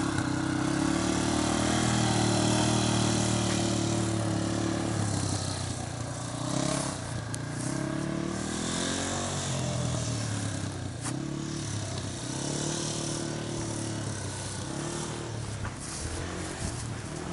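Yamaha TTR230 dirt bike's single-cylinder four-stroke engine running at low speed, its pitch rising and falling several times as the throttle is opened and eased off. Louder for the first few seconds, then fainter as the bike moves off.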